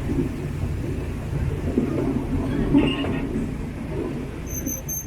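Miniature park train running along its track: a steady low rumble with a few faint clicks.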